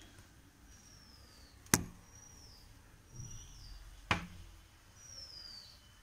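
A bird giving thin, high whistles, each falling in pitch, about four times. There are two sharp knocks, the loudest sounds, a little over two seconds apart.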